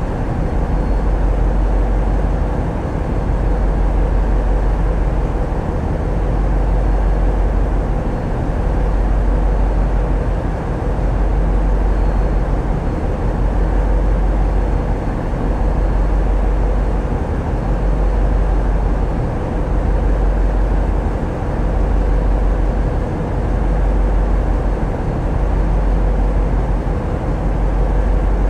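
Tugboat's diesel engines running steadily on board: a deep, continuous rumble that swells and eases every couple of seconds.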